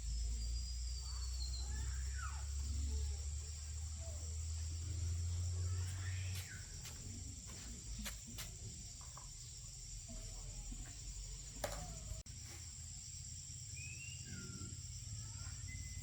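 Background ambience: a low hum that drops away about six seconds in, under a steady high-pitched drone, with a few short chirps and several sharp clicks.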